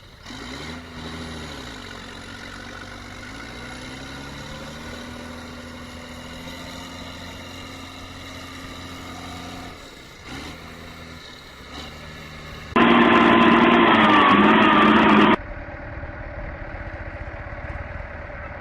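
Tractor engine running and revving, its pitch rising and falling. About two-thirds through, a much louder, harsh burst cuts in abruptly for a couple of seconds, then stops just as suddenly.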